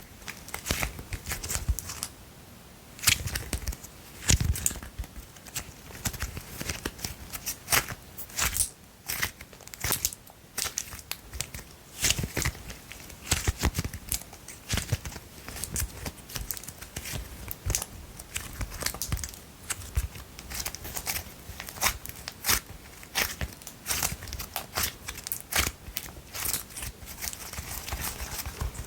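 Pink slime and its plastic container being worked fast with long nails: quick, irregular tapping, scratching and crackling slime pops and squishes.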